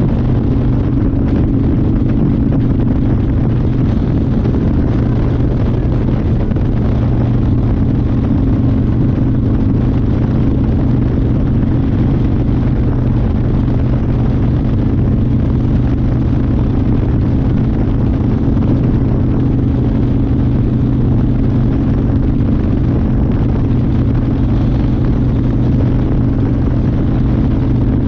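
1992 Harley-Davidson Fat Boy's Evolution V-twin engine running at a steady speed under way, with no revving or shifting, under a constant rush of noise.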